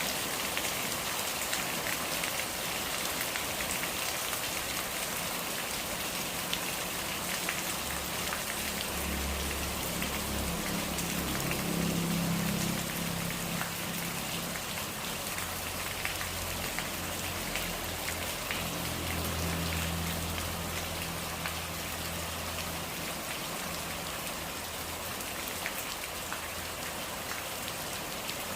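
Steady rain, many separate drops hitting a surface. A low rumble rises and fades in the middle.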